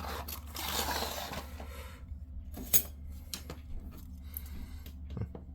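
Thin plastic wrapping rustling as it is taken off a model railway tank car, then a few light clicks and taps as the plastic model is handled.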